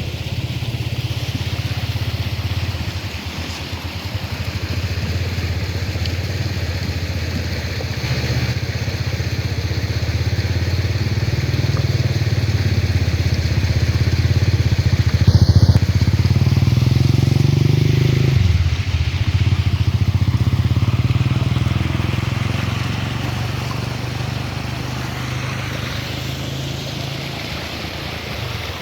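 A vehicle engine running under way, growing louder toward the middle; its pitch climbs briefly and then drops suddenly about eighteen seconds in, as the throttle is eased or a gear is changed. There is a single short sharp knock about fifteen seconds in.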